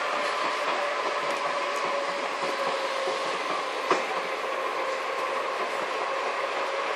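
A train running, heard from inside a passenger carriage: a steady ride noise with a constant hum. One sharp knock comes about four seconds in.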